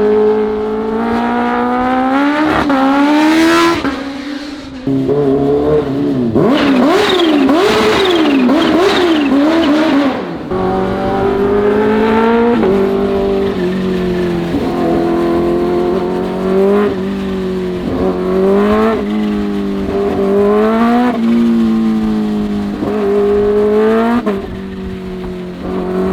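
Kawasaki H2 motorcycle engine pulling hard through the gears: its pitch climbs and drops back at each upshift, about every one to two seconds. In the middle the pitch wavers quickly up and down for a few seconds, like rapid throttle blips.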